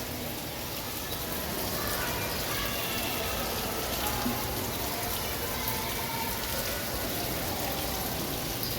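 Steady rushing of running water, with faint, scattered bird chirps.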